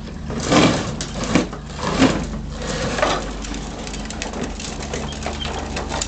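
Child's toy ride-on tractor rolling over the ground, its wheels and body rattling and scraping in uneven surges, then lighter scattered clicks.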